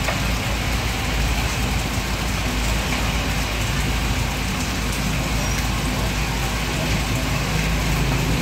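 Basa fish cake deep-frying in a large pan of hot oil: a steady sizzle, with a low hum underneath.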